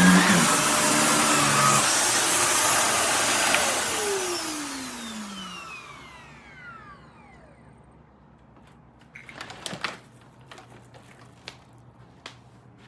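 Shark Navigator Lift-Away upright vacuum running, then switched off about two seconds in. Its motor spins down with a falling whine over several seconds, and a few light clicks and knocks of handling the machine come near the end.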